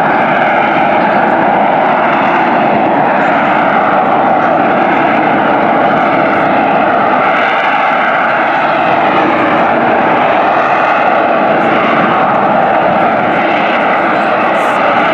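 AV-8B Harrier II's Rolls-Royce Pegasus turbofan running at high power: loud, steady jet noise with slowly wavering tones, holding level throughout.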